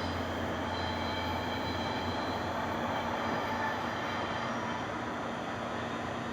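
NJ Transit commuter train rolling through the station, a steady rail rumble with faint high, steady tones over it; a low hum fades out about two seconds in.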